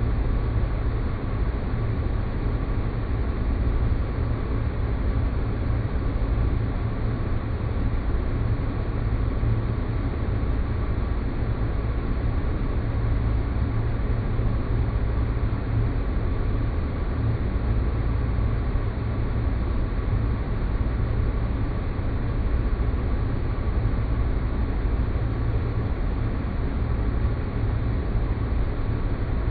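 Steady synthetic space ambience: a constant deep rumbling drone with a faint steady high tone above it, unchanging throughout.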